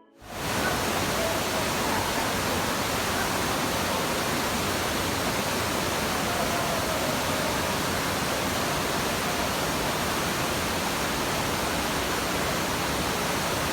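Floodwater rushing in a flooded subway station: a loud, steady, even rush of water that holds at one level throughout.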